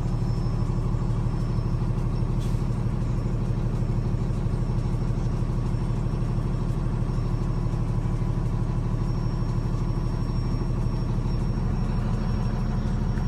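A 28 ft box truck's engine running steadily at low speed as the truck backs up.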